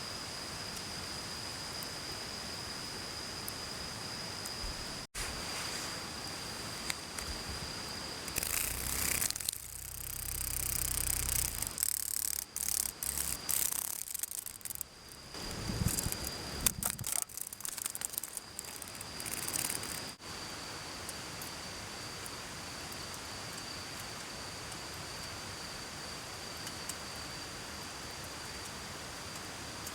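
A steady high-pitched insect trill over the even hiss of a mountain stream; from about eight to twenty seconds in, a cicada close by buzzes harshly in uneven bouts, with clicks, rustling and fluttering close to the microphone.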